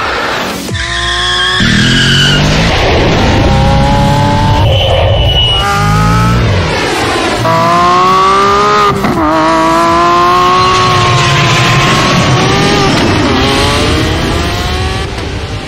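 Lamborghini Aventador SVJ's V12 engine revving hard under acceleration. Its pitch climbs and drops back several times at the gear changes.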